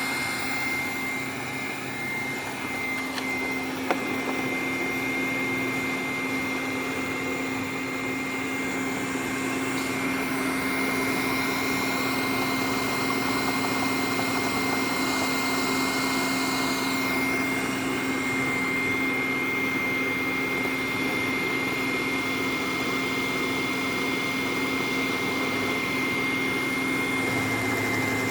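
Robot vacuum cleaner running: a steady motor whine with a high tone and a low hum. There is a single click about four seconds in.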